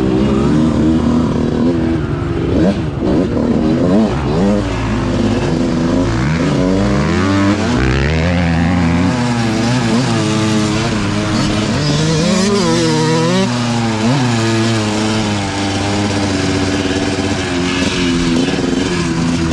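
Dirt bike engine revving hard on the trail, its pitch climbing and dropping again and again as the throttle is opened and closed through the gears.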